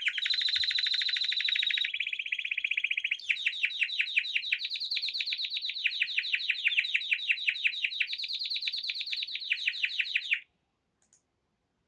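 A small songbird singing a fast trill of repeated chirps, about seven notes a second, in a few phrases that shift slightly in pitch. It cuts off suddenly about ten seconds in.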